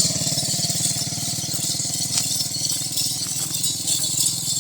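A small engine running steadily at idle, its even low pulsing constant throughout, with a high hiss over it.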